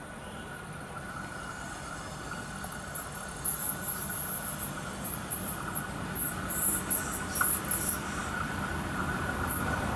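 Insects chirping in irregular, very high-pitched bursts. Under them, the low rumble of an approaching 2TE10M diesel locomotive and its passenger train slowly grows louder.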